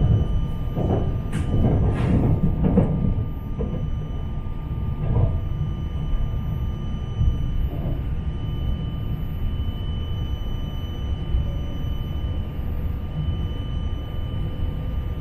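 Cabin noise of an E4 series double-deck Shinkansen running into a station: a steady low rumble heard from inside the passenger car, with a few sharp clacks in the first three seconds.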